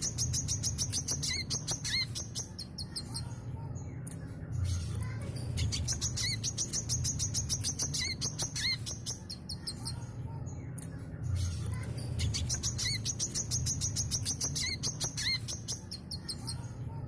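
Brown-throated sunbird singing in long phrases of rapid, high chattering and twittering notes, broken by pauses of about a second, over a steady low hum.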